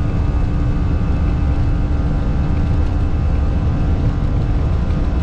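Airbus A320 cockpit noise in flight: a steady low rumble of engines and airflow with a constant hum.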